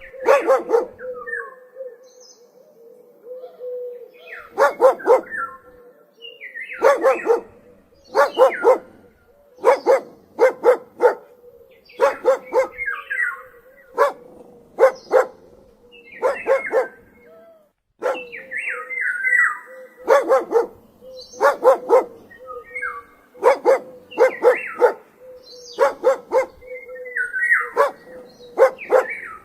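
Dog barking over and over in quick runs of two to four barks, every second or two.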